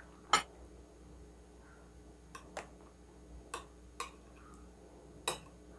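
Metal spoon and fork clinking and tapping against a plate while cutting a fresh spring roll: about six sharp clicks spread over the few seconds, the loudest just after the start.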